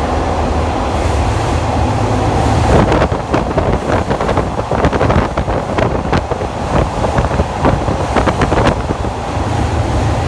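Train running at speed, heard from an open-air trolley car: a steady low rumble with wind blowing on the microphone. From about 3 to 9 seconds in comes a stretch of quick, irregular clattering.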